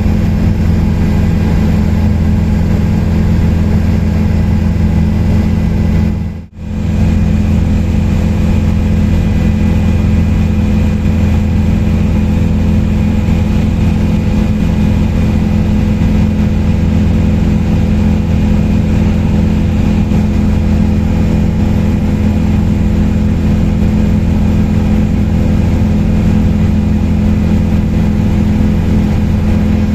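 Helicopter in steady flight: a constant low engine and rotor drone with a faint steady whine above it, dipping out briefly once about six seconds in.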